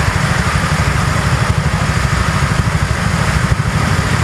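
An engine running steadily at a low, even rumble.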